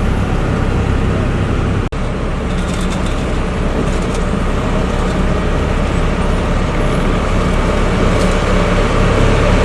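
Heavy diesel vehicle engines running steadily, loud and low, with a brief gap about two seconds in.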